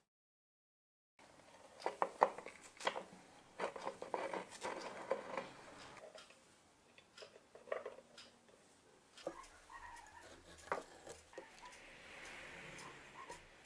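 Light clicks and taps of small hard parts being handled, thick for a few seconds and then sparser, with a soft hiss near the end. A second of dead silence opens it.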